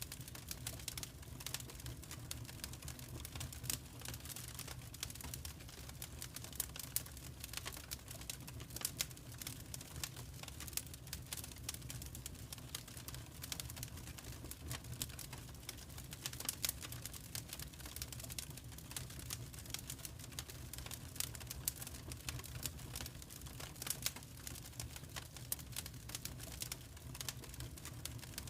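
Wood fire crackling in a fireplace: irregular small snaps and pops over a low steady rumble.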